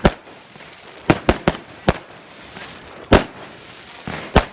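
Celtic 'Magneto Burst' consumer firework going off: about seven sharp bangs at uneven intervals, three of them in quick succession about a second in, over a steady background crackle.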